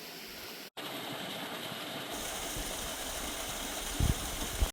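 Steady rushing of a waterfall and creek. It drops out for an instant under a second in, and two short low thumps come near the end.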